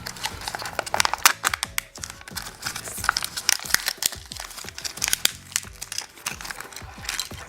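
Plastic wrapping of a Kinder Joy toy capsule crinkling and crackling as it is handled and opened, in many quick irregular crackles over background music.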